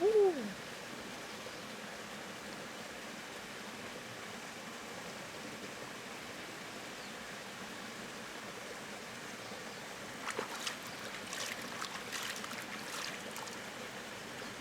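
Steady rush of flowing river water. A short, loud falling tone sounds right at the start, and about ten seconds in comes a few seconds of crisp clicks and scrapes.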